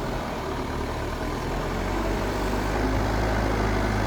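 Mahindra 4WD DI tractor's diesel engine running steadily with a low hum, getting a little louder about two seconds in.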